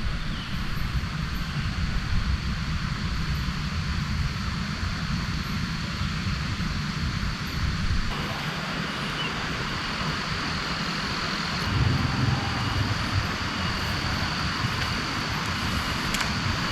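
Heavy rain falling steadily: a constant hiss with a low rumble underneath.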